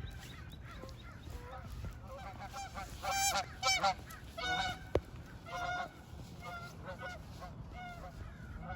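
Geese honking, a run of short repeated calls in the middle, loudest a few seconds in, with a single sharp click about five seconds in.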